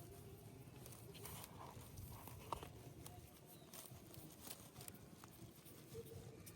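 Near silence: faint outdoor ambience with a few small scattered clicks and taps, the sharpest about two and a half seconds in.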